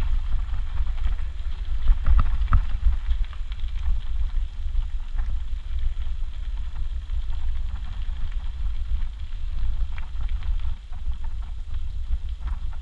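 Low, steady rumble of wind and movement on a GoPro's microphone, with scattered knocks and scuffs.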